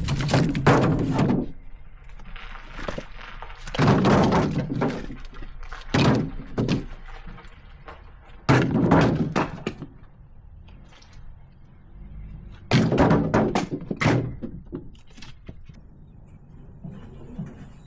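Split firewood logs knocking and thudding against one another as they are set down on a stack, in clusters of several hits every few seconds.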